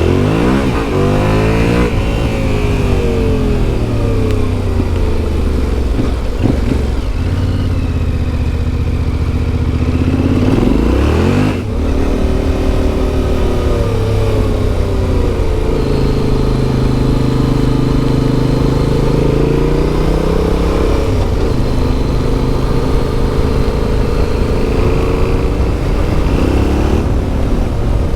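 Yamaha Ténéré 700's CP2 parallel-twin engine through an Akrapovic exhaust, under way with its note rising and falling again and again as the throttle opens and closes and gears change. There is a brief cut in the engine sound about eleven seconds in.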